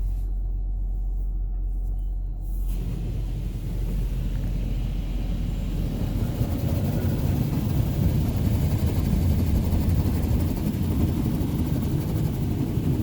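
Steady low hum heard from inside a minivan's cabin in a touchless car wash bay. About three seconds in, a louder rushing rumble starts and builds, with a faint hiss on top, as the wash machinery gets going around the van.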